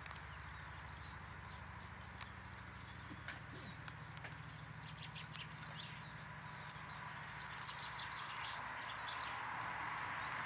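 Small garden birds chirping and twittering at a bird table, with scattered sharp taps and a faint steady low hum underneath.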